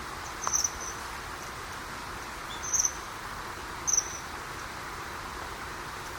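Common kingfishers calling to each other: three short, high, shrill trills ("chiririri"), about half a second, nearly three seconds and four seconds in, over the steady rush of the river.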